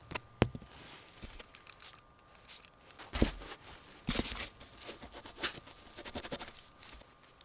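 Scattered sharp clicks and knocks with some rustling, the loudest knocks about half a second and three seconds in, and a quick run of clicks near the end.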